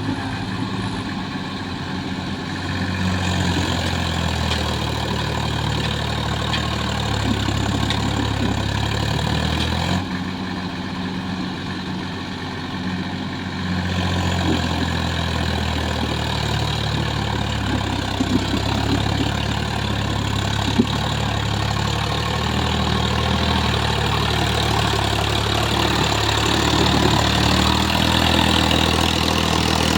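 Swaraj tractor's diesel engine running steadily while pulling a fully loaded trolley, its level dipping slightly twice, near the start and about ten seconds in.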